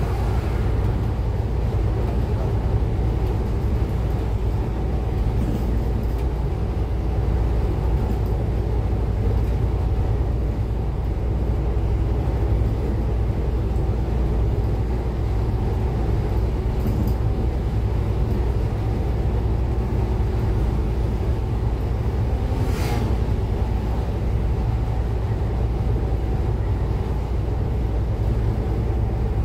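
Cummins ISF3.8 four-cylinder turbo-diesel engine of a Daewoo Lestar bus running steadily with a deep, even rumble. A brief sharp noise cuts in about 23 seconds in.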